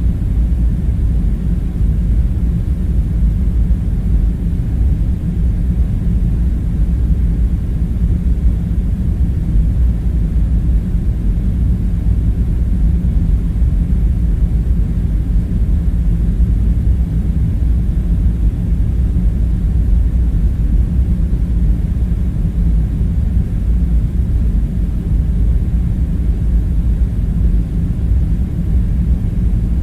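Steady low background rumble with its weight in the deep bass, unbroken and without distinct events.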